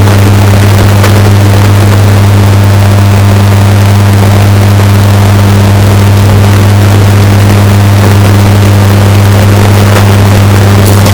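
Washing machine running with a steady low hum, heavily bass-boosted and distorted at near full volume.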